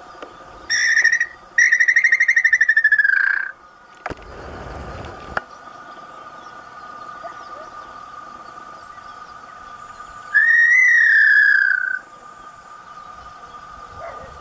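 Small-billed tinamou whistling: a short note, then a longer quavering whistle that slides down at its end, and later one more whistle that rises and falls. A steady high hum runs underneath, with a brief low rumble about four seconds in.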